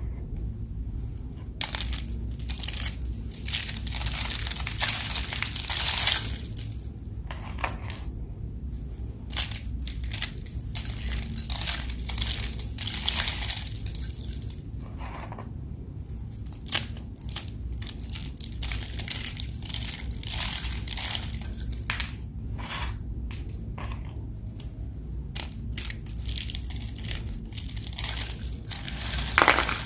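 White soap being crushed, an irregular run of crunching and crumbling crackles, some short and sharp, some drawn out.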